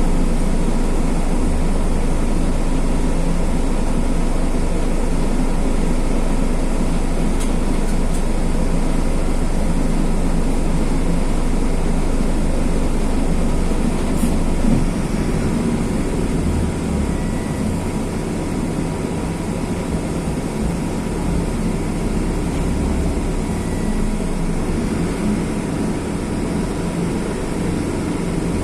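A Mercedes-Benz OF-1519 bus's OM-924 LA four-cylinder turbo diesel, running steadily under way with a low drone. The drone eases off a little about halfway through.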